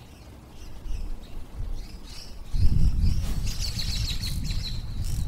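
Small birds chirping, with a quick run of high chirps a little past the middle. From about halfway a low, uneven rumble comes in and becomes the loudest sound.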